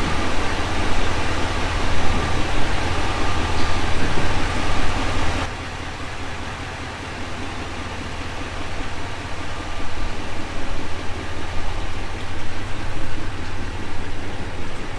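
A vehicle running, with a steady low hum under a hiss; about five and a half seconds in the hiss drops away abruptly and the sound turns quieter and duller before building back up.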